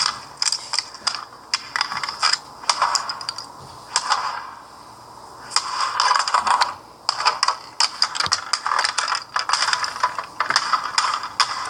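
Rapid clicking and ratcheting of a toy's plastic mechanism, in uneven bursts, with a rasping stretch about six seconds in.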